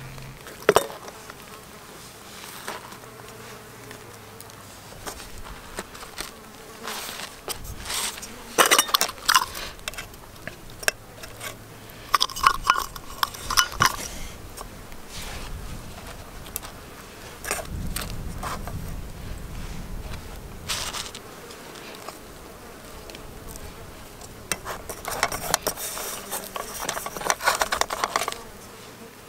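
Insect buzzing that comes and goes, with several bursts of clinks, clicks and rustling from objects being handled.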